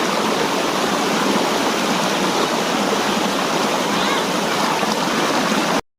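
Steady, loud rush of water tumbling down a tiered waterfall, close by. It cuts off suddenly just before the end.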